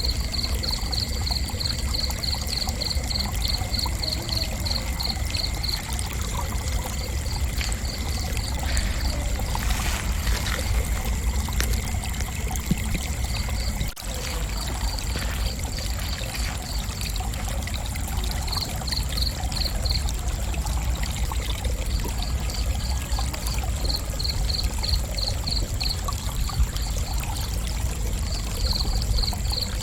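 Crickets chirping: a rapid pulsed chirp, about four or five pulses a second, repeating in runs of a few seconds with short gaps, over a continuous high trill. A steady low rushing noise runs underneath.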